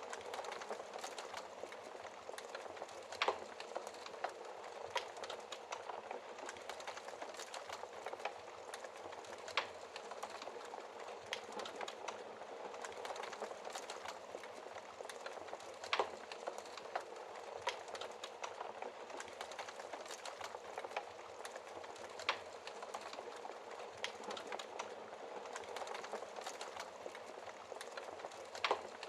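Wood fire burning in a fireplace: a steady soft crackle dotted with sharp pops, a handful of them louder, at irregular intervals.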